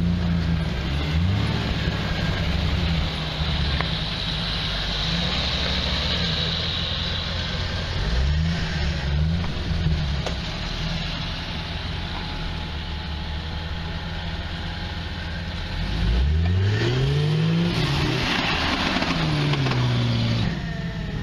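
A car engine running and being revved up and down over and over, its pitch rising and falling. The strongest revs come about 16 to 19 seconds in, where it also gets louder.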